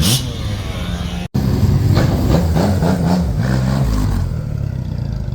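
Motorcycle exhaust, the engine revved up and down several times, its pitch rising and falling. A sudden break about a second in.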